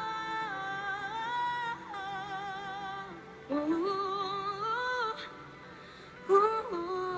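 Female pop vocal ad libs in head voice: long notes held with vibrato in four phrases, over a soft backing track.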